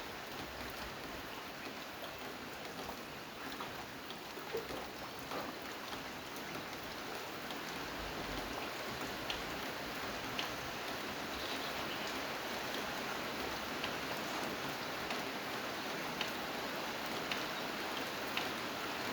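Steady rain, an even hiss with scattered sharper drop ticks; it grows a little louder about six seconds in.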